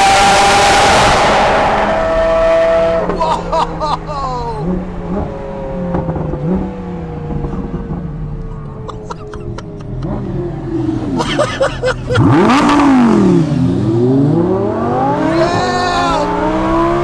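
Straight-piped Lamborghini Aventador V12 revving and accelerating hard. It is very loud, with a rush near the start and again about twelve seconds in, and the engine pitch swings sharply up and down in between.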